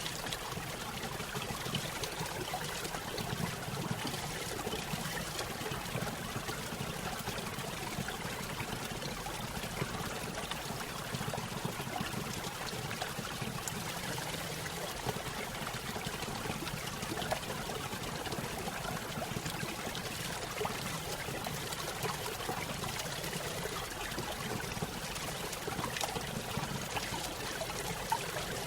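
A small stream spilling over a little waterfall: steady trickling and splashing water, even and unbroken.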